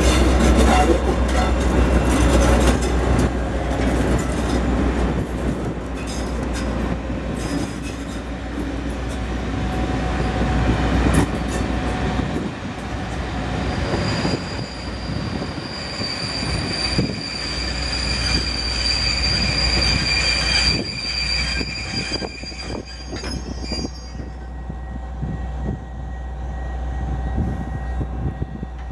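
Class 57 diesel locomotive, with its EMD two-stroke V12 engine, rumbling past slowly, followed by its coaches rolling by with the clatter of wheels over the rails. About halfway through, a steady high-pitched wheel squeal sets in for around ten seconds, then dies away as the coaches keep rolling.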